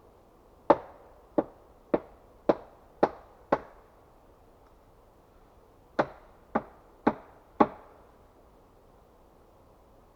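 Axe chopping wood: a run of six strikes about two a second, a pause, then four more.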